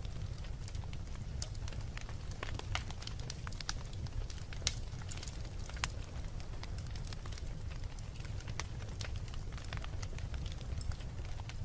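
Wood fire burning in a fireplace: a steady low rumble of flames with irregular crackles and pops throughout, one sharper pop a little under five seconds in.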